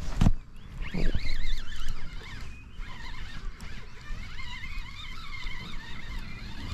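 Birds chirping and warbling for several seconds over a low rumble, after a couple of sharp knocks near the start.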